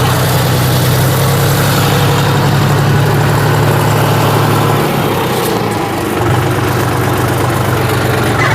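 Tractor engine running steadily at idle, its note weakening briefly about five seconds in before settling back.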